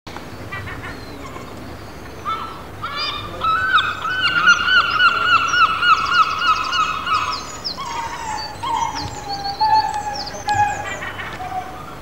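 Bird calling: a run of rapid repeated calls, about five a second, for some four seconds, then a few longer calls falling in pitch.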